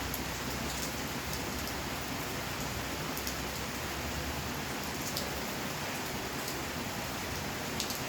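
Steady rain falling, an even hiss with scattered drops ticking on nearby surfaces.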